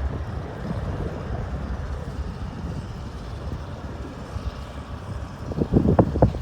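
Strong gusty wind buffeting the microphone over a steady low rumble, with a flurry of harder gusts near the end.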